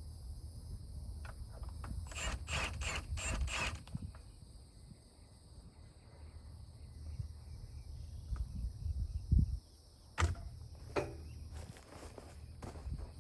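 Hand work on skid steer track parts with metal tools: a quick run of clicks about two to four seconds in, then a couple of sharp knocks a little past the middle. Insects chirp steadily in the background.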